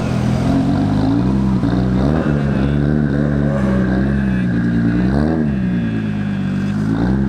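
Modified car's engine idling with a deep exhaust note, blipped briefly twice, about two seconds in and about five seconds in.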